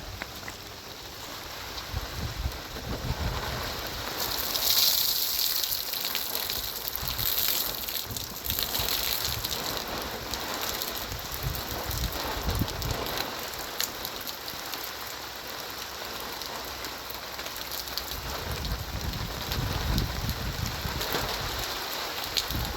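Heavy rain falling steadily, heaviest about five seconds in.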